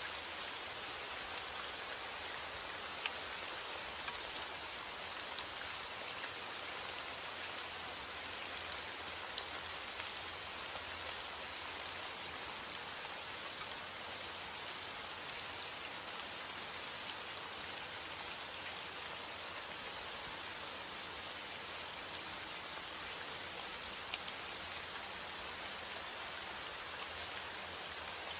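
Steady heavy rain falling, an even hiss of rainfall with many individual drops ticking on a surface.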